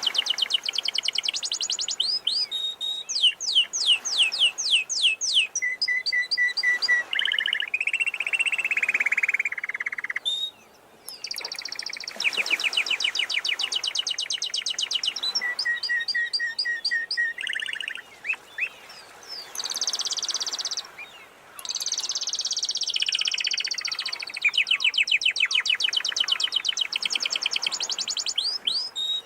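Domestic canary singing: a long song of fast trills and rolls at changing pitches, breaking off briefly a few times.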